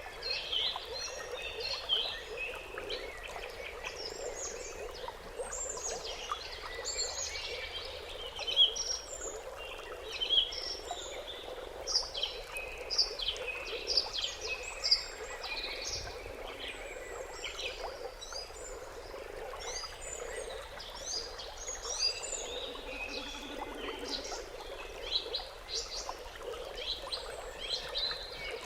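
Many small birds chirping and calling, short quick notes overlapping throughout, over a steady low background chorus.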